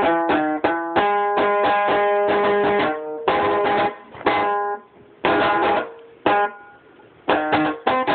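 A rababa lyre being plucked: a quick run of picked notes, then a few single chords struck about a second apart, a short lull, and the quick plucking picks up again near the end.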